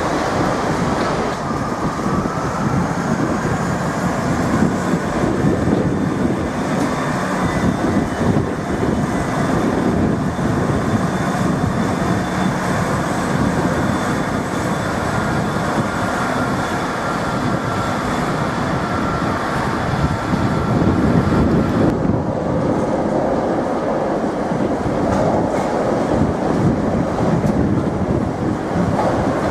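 A train running through a station: steady wheel and running noise on the rails with a few faint held whining tones. The higher hiss drops away suddenly about three-quarters of the way through.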